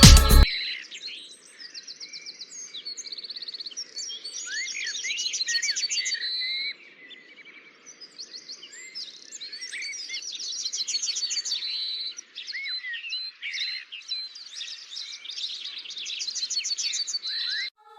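Several songbirds chirping and singing together, with overlapping short chirps and rapid trills and a faint steady hiss underneath. Music cuts off about half a second in.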